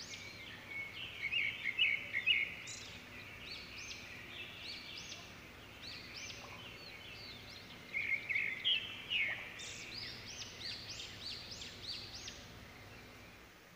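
Small birds chirping in quick runs of short, high, arched notes. The calls are busiest about a second in and again from about eight seconds, over a faint steady background hum.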